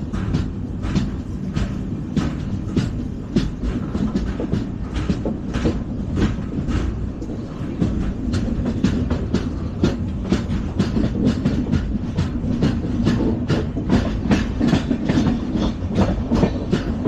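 LHB passenger coach running at speed: a steady low rumble with rapid, irregular clicks of the wheels over rail joints, the 'rack' or 'burning track' sound of LHB stock.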